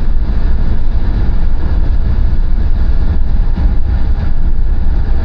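Steady, loud low rumble of a car on the move: road and engine noise heard from the moving vehicle.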